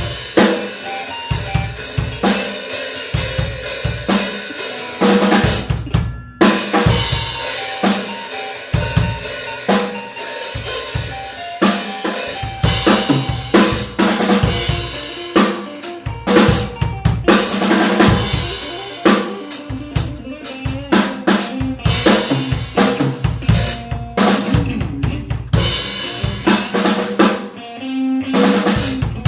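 Drum kit and guitar playing an improvised blues-fusion jam, with busy kick, snare and rimshot work under held guitar notes. The band stops for a brief break about six seconds in, then comes back in.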